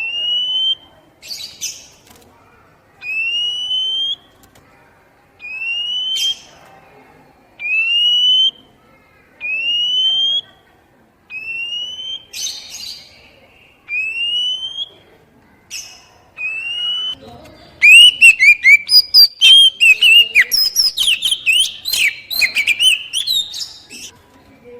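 Oriental magpie-robin (kacer poci) giving a clear rising whistle about every two seconds, with a few short harsh chips between. About two thirds of the way through it breaks into a loud, fast, varied song. This is a basic-call recording used to stir caged kacer into singing.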